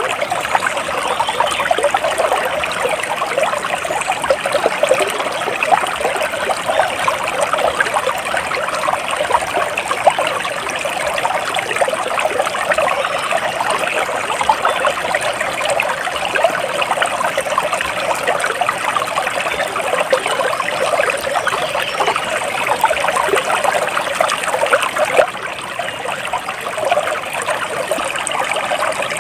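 Flowing water of a small stream trickling steadily, a dense even patter of small splashes.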